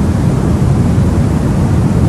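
Steady, unbroken white-noise sleep sound for babies, a deep even rush weighted toward the low end.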